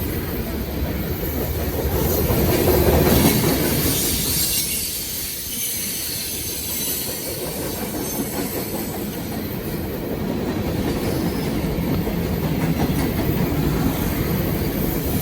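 Long freight train rolling steadily past, its wagons clacking over the rail joints with a high wheel squeal at times, a little louder a few seconds in.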